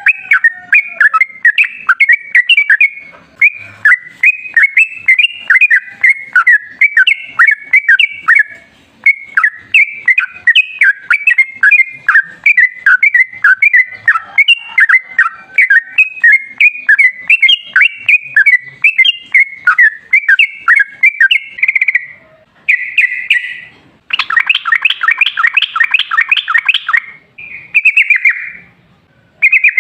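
Yellow-vented bulbul (trucukan) singing a long, fast, unbroken run of short bubbly notes, the long 'ropel' song, then breaking into shorter phrases with a dense rattling trill about three-quarters of the way through.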